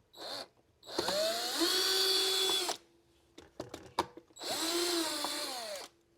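Cordless electric screwdriver running in two bursts of about two seconds each, speeding up and then holding a steady whine as it backs screws out of a robot vacuum's plastic casing, with a few small clicks between the bursts.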